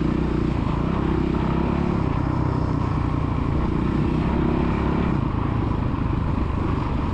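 Small motocross dirt bike engine running on the track, its pitch rising and falling a little with the throttle.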